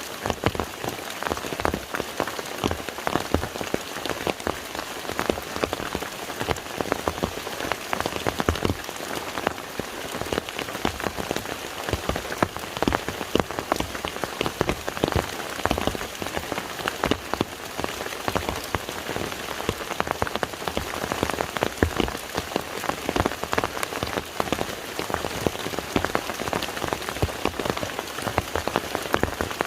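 Steady rain falling onto the surface of a lake, a dense, continuous patter of individual drops striking the water.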